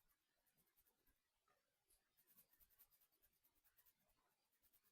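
Very faint scratching of a colouring tool on paper, quick back-and-forth colouring strokes, busiest about two to three seconds in.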